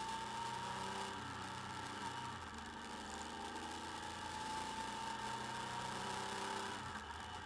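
Motorcycle engine running while the bike is ridden along, its whine rising slowly in pitch, under a steady hiss of road and wind noise picked up by a bike-mounted camera.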